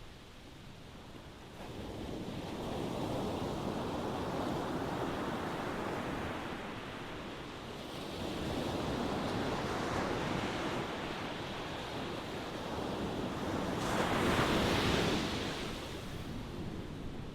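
Ocean waves breaking on a shore: a steady wash of surf that swells and recedes, with three surges, the strongest about two-thirds of the way through.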